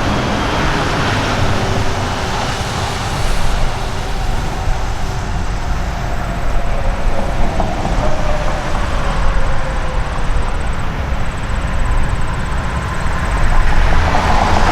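Heavy vehicles going by: a steady low rumble of engines and tyres, with a faint whine that slowly falls in pitch partway through as one passes.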